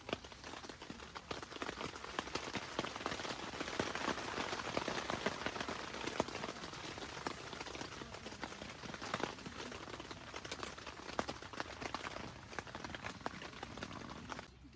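Steady rain falling, a dense spread of many small drop hits, cutting off suddenly near the end.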